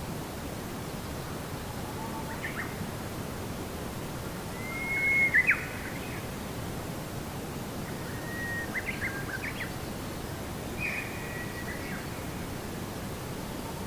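Birds singing: four short phrases, each a brief whistled note followed by quick chirps, the loudest about five seconds in, over a steady background hiss of outdoor ambience.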